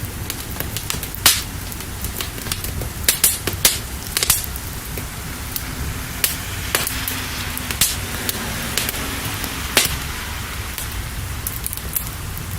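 Crackling fire with scattered sharp pops over a steady hiss of rain.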